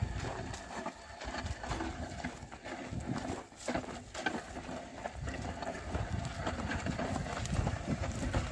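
Oxen drawing a plough, their hooves clopping and scuffing in the soil with scattered irregular knocks.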